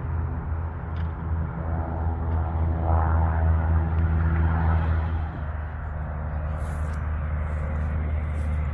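Steady low engine rumble with a deep hum; its higher tones fade out about five seconds in.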